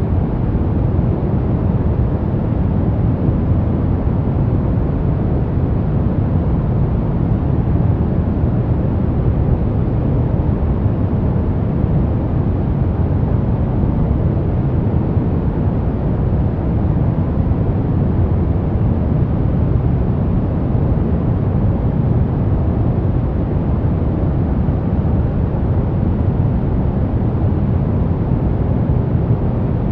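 Steady, unbroken white noise for baby sleep, deep in tone: mostly a low rumble with only a soft hiss above it, and no change at any point.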